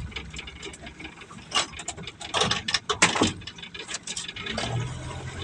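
A run of irregular clicks, knocks and rattles of fishing gear being handled, with a low steady hum coming in near the end.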